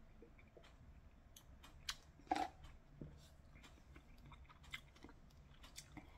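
A person drinking broth from a cup of instant katsuo udon and chewing the noodles: soft, faint wet mouth clicks, with one louder mouth sound about two seconds in.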